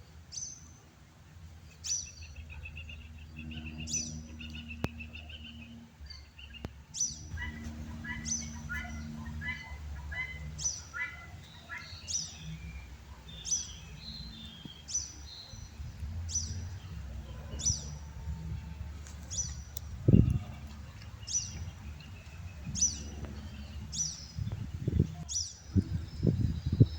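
Birds calling: one repeats a short, high, falling chirp about every second and a half, while another gives a quick run of lower notes for a few seconds. A low steady hum lies beneath, with a sudden low thump about two-thirds of the way in and a few more near the end.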